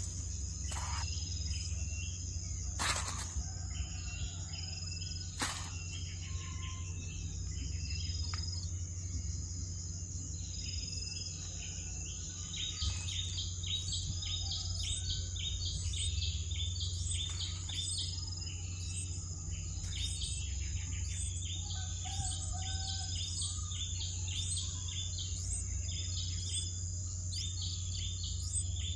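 Bulbul chirping over and over in short, evenly repeated notes, thickening about halfway through, over a steady high insect drone and a low hum.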